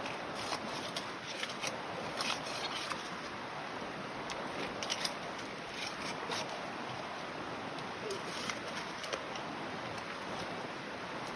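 Gravel and small stones clicking and scraping against each other at irregular moments, over a steady rushing noise typical of a creek's flowing water.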